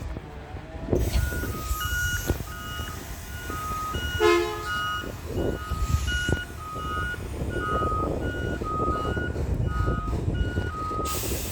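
Garbage truck reversing, its backup alarm beeping about twice a second in two alternating pitches over the running diesel engine. A brief loud blast comes about four seconds in, and a hiss near the end.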